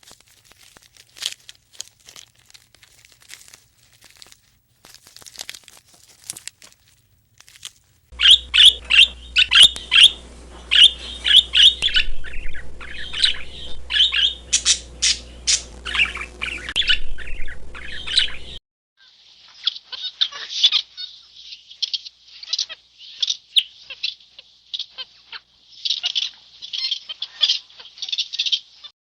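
Faint scattered clicks, then from about eight seconds in, loud rapid high-pitched bird chirps and squawks in quick runs. They break off briefly a little past the middle and start again.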